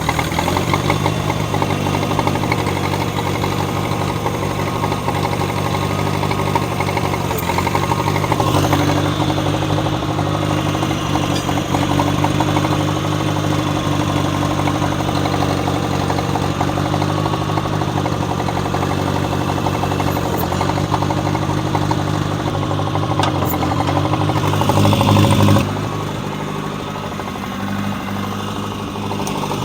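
John Deere 1010 tractor's carbureted gasoline engine running steadily in neutral. Near the end it gets louder for a moment, then suddenly drops back to a quieter run.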